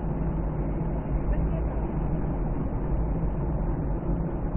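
Steady low rumble of a car's engine and road noise heard from inside the cabin, with no distinct events.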